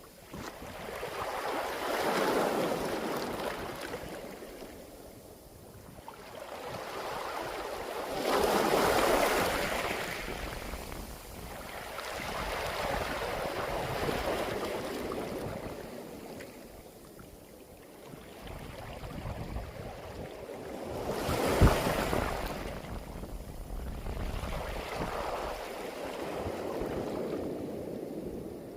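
Sea waves washing up and drawing back over a beach of round pebbles (mongdol), the water rushing and rattling through the stones in slow surges every several seconds. The surges are loudest about nine and twenty-two seconds in, with a single sharp clack near the second.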